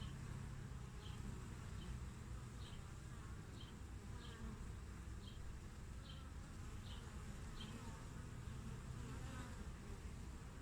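Honeybees buzzing at a hive entrance: a steady low drone of many bees. A short high chirp repeats roughly every second through the first seven seconds.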